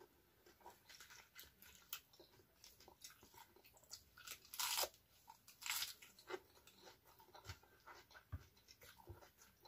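A person biting and chewing raw lettuce and other raw vegetables: crunching and chewing with small clicks throughout, and two loud crunching bites, one about four and a half seconds in and one about six seconds in.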